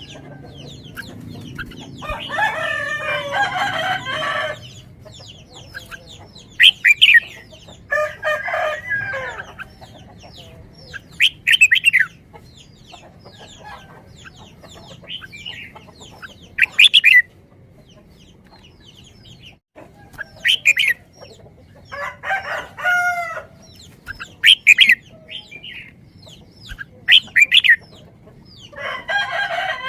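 Birds calling: four long calls of about two seconds each, with many short, sharp chirps between them.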